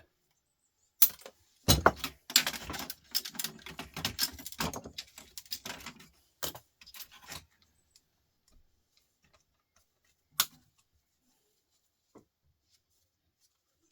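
Small metal scrap pieces clinking and rattling as they are handled and dropped onto a pile of salvaged parts: a dense run of sharp clinks and jingles over the first half, then a couple of single knocks.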